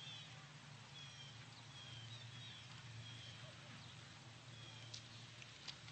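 Faint bird chirping: short high notes falling in pitch, repeated about once a second over a steady low hum, with two sharp clicks near the end.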